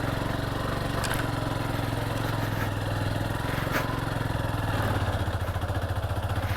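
Motorcycle engine running steadily at low, even revs, with a few light clicks over it.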